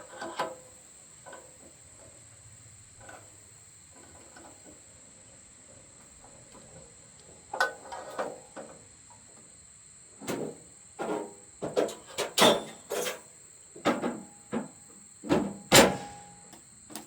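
Irregular knocks and clanks, about a dozen sharp hits in the second half, from a log being handled and shifted on a portable sawmill's bed, with a faint steady high tone underneath.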